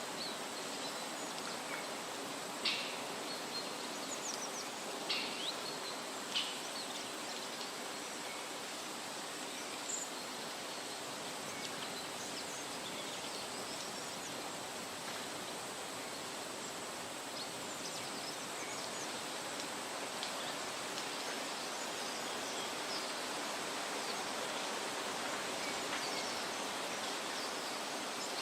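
Forest ambience: a steady, even rushing hiss, with three or four short, sharp bird chirps in the first several seconds.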